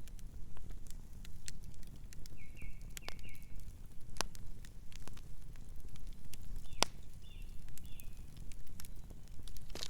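Campfire burning, with the wood crackling and giving sharp irregular pops over a steady low rumble. A few short high chirps come twice, a little way in and again past the middle.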